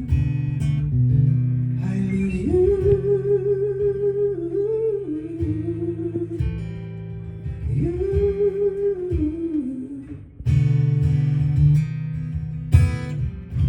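Live song played on acoustic guitar, with a wordless sung melody wavering over the chords in two phrases; the guitar comes back louder about ten seconds in.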